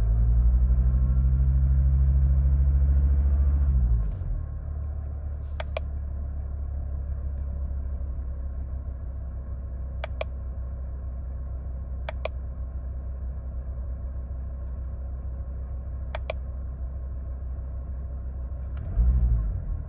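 Car engine held at raised revs for about four seconds, then dropping back to a steady idle. Four sharp clicks sound over the idle, and the engine gives a short blip of revs near the end.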